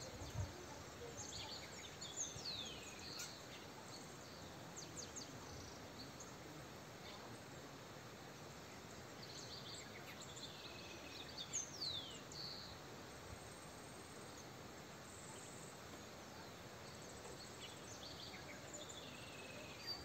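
Birds at a feeder giving a few sharp, high-pitched calls that sweep downward, in short clusters about two seconds in and again around eleven seconds in, over a steady outdoor hiss. There is a soft low bump near the start.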